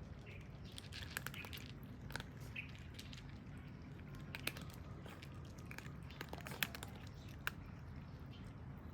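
Cats chewing food: scattered irregular crunches and clicks, a few sharper ones in the middle, over a low steady background hum.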